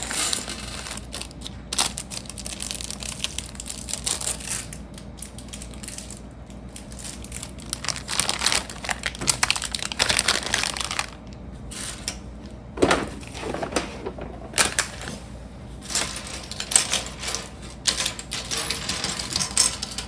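Small plastic Lego pieces clicking and rattling on a hard table, with a plastic parts bag crinkling, in irregular clicks and rustles throughout.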